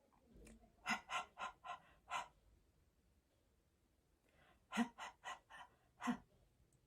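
A voice making the phonics letter sound 'h' as short, breathy puffs of air: five quick 'h, h, h, h, h' in a row, then a pause of about two seconds, then five more.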